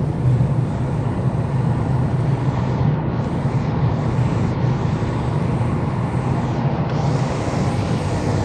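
A car driving at a steady pace: constant engine and road noise.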